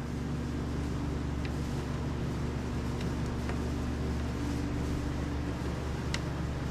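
A steady, low mechanical hum, with a few faint light clicks.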